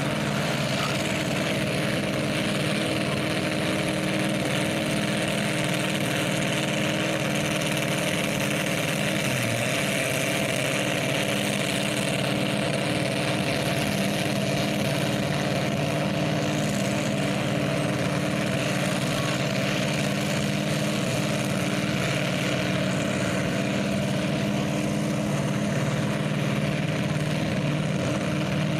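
A large engine idling steadily, with no revving.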